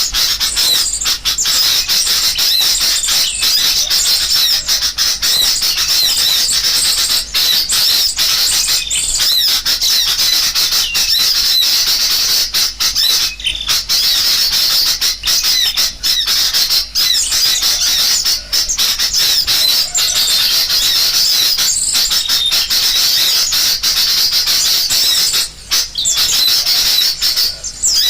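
Dense, continuous chattering and twittering of many birds, high-pitched and unbroken. It is a bird-trapping lure recording of agitated sooty-headed bulbul (kutilang) calls mixed with the calls of small songbirds, played to draw birds in.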